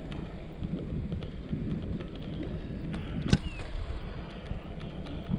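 Wind buffeting the microphone with a steady low rumble while riding a mountain bike, with scattered small clicks and one sharp click a little past halfway.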